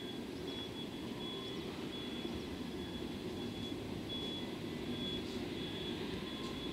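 Distant EF210 electric freight locomotive and its wagons approaching on the line: a steady low rumble, with a faint high chirp repeating over it.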